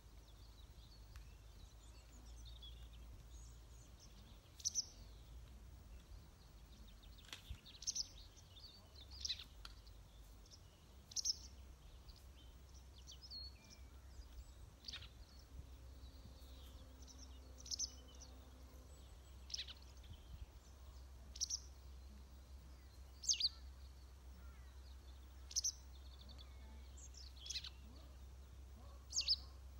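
A bird calling repeatedly: short, high notes that slide downward, one every second or two, over a low steady rumble.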